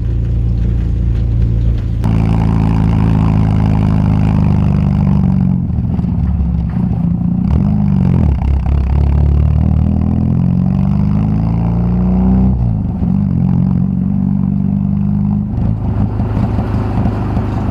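VW Gol G2's AP four-cylinder engine through a straight-through exhaust with no muffler, pulling under throttle. The revs climb, drop and climb again as it shifts gears.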